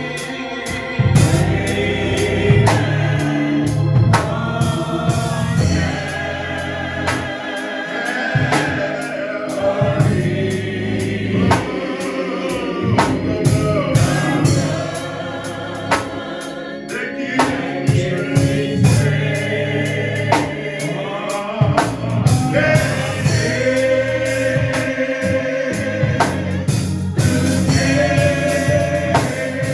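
Gospel choir singing with instrumental accompaniment: a bass line, keyboard and steady drum beat.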